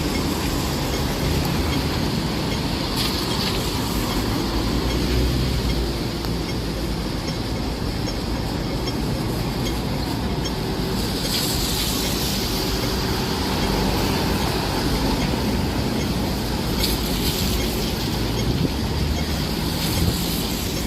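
Strong typhoon wind with heavy rain: a steady rushing noise with a heavy low rumble, swelling now and then as gusts come through.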